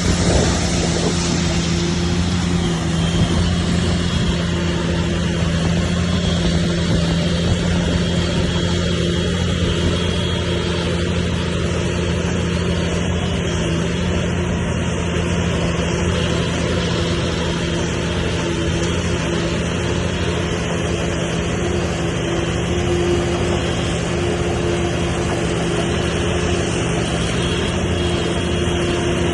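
Bulldozer's diesel engine running at a steady, even drone, with no change in pitch.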